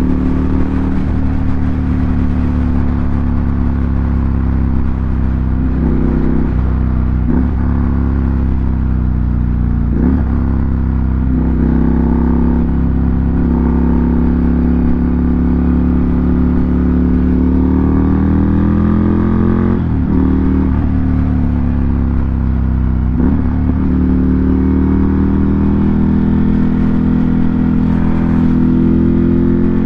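2018 Ducati Monster 797's air-cooled V-twin engine running loud through an SC Project aftermarket exhaust. The engine note rises and falls, with brief breaks in the note several times.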